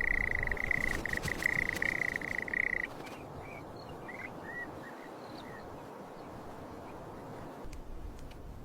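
Outdoor animal calls: a steady high trill that lasts about three seconds and stops abruptly, followed by a few short, separate chirps over a faint background hiss.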